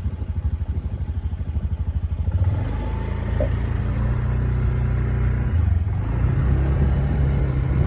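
Motorcycle engine running with a rapid, even putter at idle, then about two and a half seconds in the note rises and steadies into a louder drone as the revs pick up.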